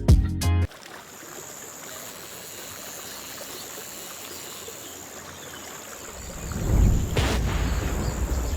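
Outro guitar music cuts off within the first second, leaving steady faint background noise with a thin high whine. About six and a half seconds in, a louder low rumble rises and keeps going.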